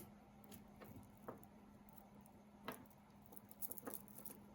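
Faint, scattered clicks of glass beads being handled, a sharper click at the start and a quick run of small ticks near the end, over a faint steady hum.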